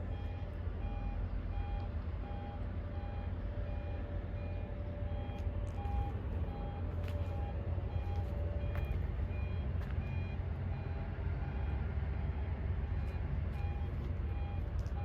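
A vehicle's reversing alarm beeping steadily, about three beeps every two seconds, over the low, steady running of an engine.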